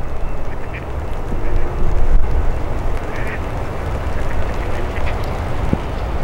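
Diesel locomotive of an approaching passenger train rumbling low as it rounds a curve, with a few brief high squeaks over the rumble.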